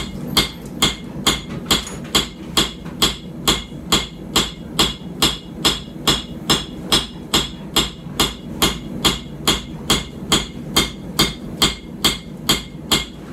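Hand hammer striking a hot puukko blade on an anvil in a steady rhythm of about two and a half blows a second, each blow with a short metallic ring, as the knife's bevels are forged in.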